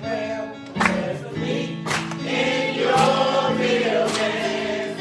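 Church choir singing a gospel song with band accompaniment, a sharp beat hitting about once a second.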